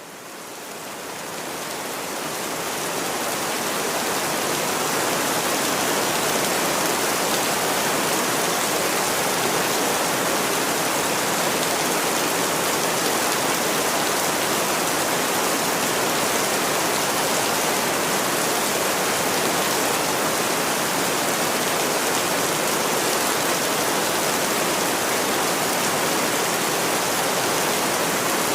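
Steady rainfall, a dense even hiss of falling rain with no distinct drops standing out; it fades up from silence over the first few seconds, then holds level.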